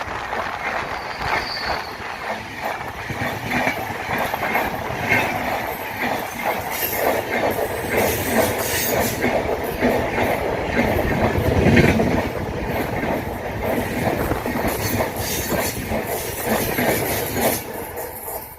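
Long-distance express passenger train rolling past at speed: a steady rush of wheel clatter over the rail joints. The noise falls away near the end.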